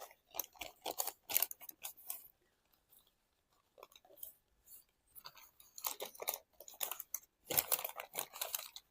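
A sheet of origami paper being folded and creased by hand, with crisp crackling and rustling in short clusters: a run of crackles over the first two seconds, a pause, then two more bursts in the second half.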